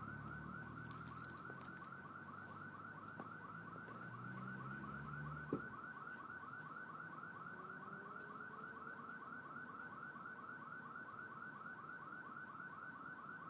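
Faint electronic alarm chirping rapidly and steadily, about four or five short chirps a second. A low engine hum underneath stops about five and a half seconds in.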